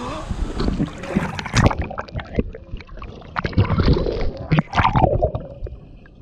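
Water sloshing and splashing close to the microphone in irregular surges, from a person shifting about in a lazy river.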